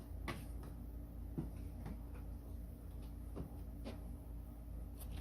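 Scattered faint clicks and light knocks from handling parts, about six in all, over a steady low hum.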